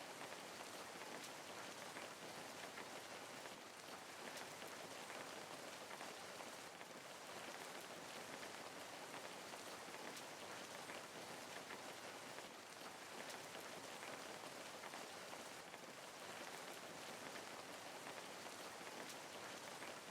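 Steady, even rain falling and pattering on a surface, soft and continuous with no single drops standing out.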